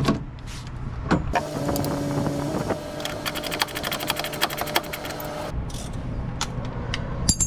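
Small electric motor of a cordless power tool running for about four seconds with a steady hum, with rapid, even clicking in the middle of the run. Scattered knocks of tool on metal come before and after it.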